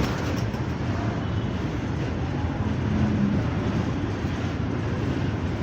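Steady low rumbling noise of a moving vehicle, with a brief low hum about three seconds in.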